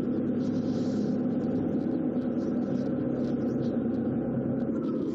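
Car engine and road rumble heard from inside the cabin while the car drives slowly, steady throughout, with a faint falling whine near the end.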